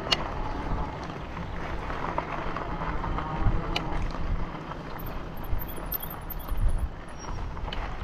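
Wind rushing over the microphone of a moving bicycle, with low rolling rumble and a few sharp clicks.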